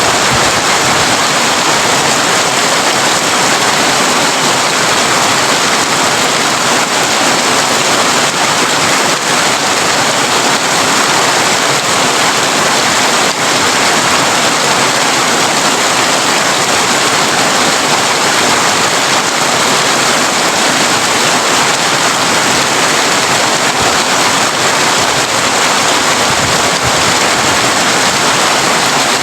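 Heavy rain on a tin roof, a steady, even hiss with no let-up.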